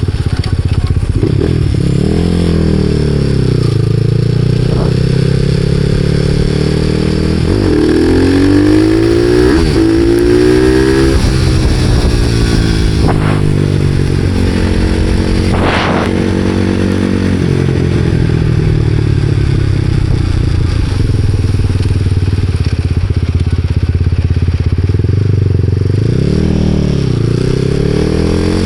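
Supermoto motorcycle engine running under way, its revs repeatedly rising and falling through acceleration and gear changes, with a few short sharp clicks.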